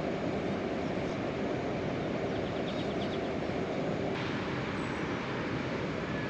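Heavy rain falling steadily: a dense, even rush of noise with no let-up.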